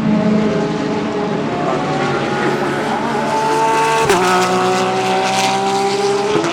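GT3 race car engines under acceleration, the note rising steadily and dropping sharply at an upshift about four seconds in, then climbing again to another shift near the end.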